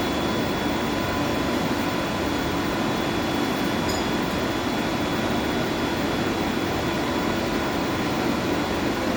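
Steady, unbroken hum and rush of running boiler-house machinery, with a faint high steady whine over it.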